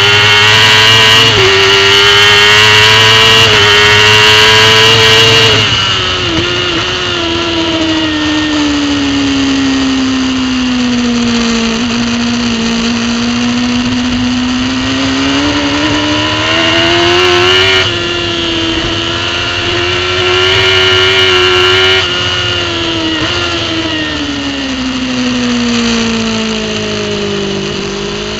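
Racing superbike engine heard from an on-board camera, running hard at high revs and then lapping the track. The engine note drops sharply about five and a half seconds in, sinks slowly and climbs back over several seconds, rises in steps, then falls and starts climbing again near the end.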